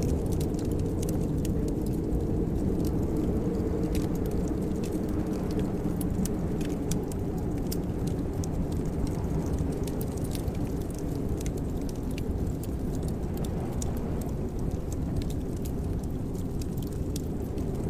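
Wood fire in a fireplace crackling, with scattered sharp pops and clicks over a steady low rumble.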